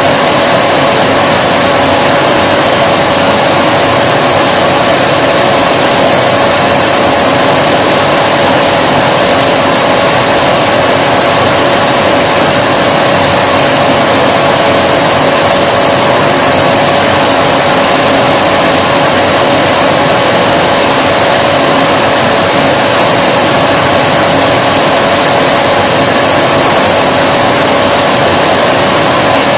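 Vacuum cleaner running steadily and loudly: a constant rush of air with a steady hum running through it, unchanging throughout.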